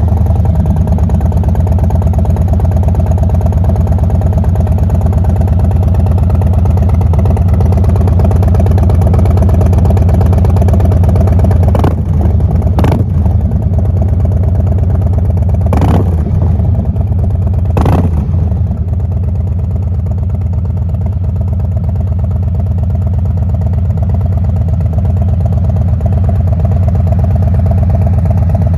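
Harley-Davidson Low Rider ST's Milwaukee-Eight 117 V-twin idling loudly and steadily through a W Baby Bazooka aftermarket muffler. There are four quick throttle blips about halfway through, then it settles back to idle.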